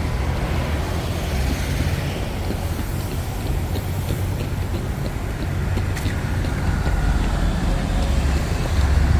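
Steady street traffic noise: the low rumble of passing cars and engines on a busy road.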